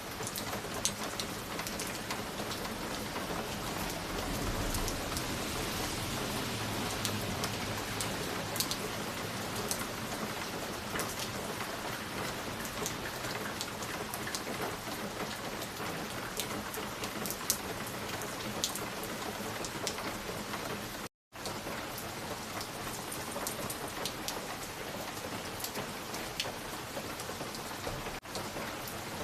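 Fireplace crackling: a steady hiss with many scattered small pops and snaps, and a low rumble for a few seconds early on. The sound cuts out completely for a fraction of a second about two-thirds of the way through.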